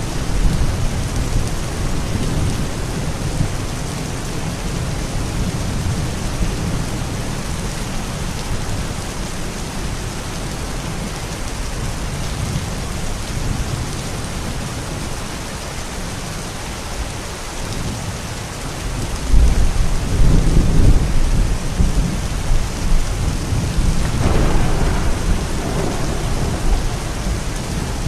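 Steady rain with low rolling thunder. A louder thunder rumble builds about two-thirds of the way through, followed a few seconds later by a sharper peal.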